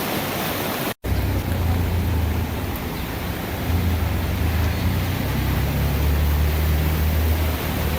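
Floodwater of the swollen Little Pigeon River rushing steadily. After a short break about a second in, a deep steady rumble sits under the rush.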